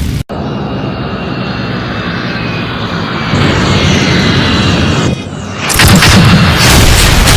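Aircraft engine sound effect droning, broken by several abrupt cuts, then a sudden loud burst of noise about six seconds in that stays loud.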